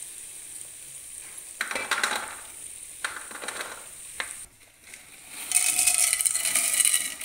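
Metal spoon scraping and knocking against a frying pan and steel bowl as fried cashews are scooped out of hot ghee. About five and a half seconds in, a loud sizzle starts as pieces of edible gum (gond) are dropped into the hot ghee.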